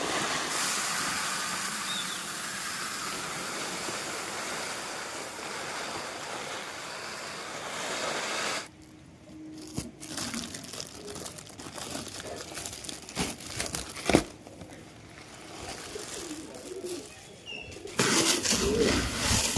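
Dry grain pouring in a steady rush for about eight and a half seconds. Then it stops abruptly, giving way to quieter rustling and scattered clicks of grain being handled, which grow louder again near the end.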